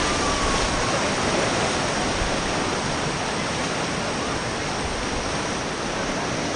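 Rushing river water, a steady, loud roar of whitewater.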